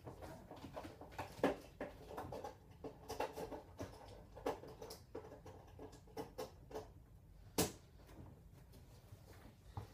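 Irregular small clicks and knocks of objects being handled, with one sharper click about seven and a half seconds in.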